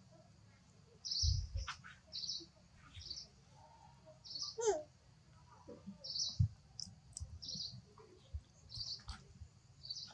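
Birds calling: short high chirps repeated every half second or so, with a few whistled notes that glide in pitch. There are two low thumps, one a little past a second in and one past six seconds.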